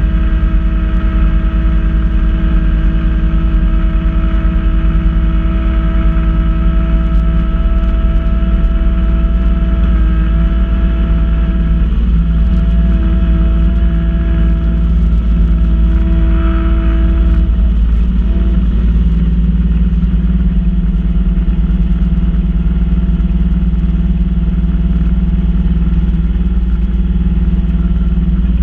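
Kubota B2650 compact tractor's three-cylinder diesel engine running steadily while it powers a front-mount snowblower, with a steady whine over the engine that wavers briefly about two-thirds of the way through.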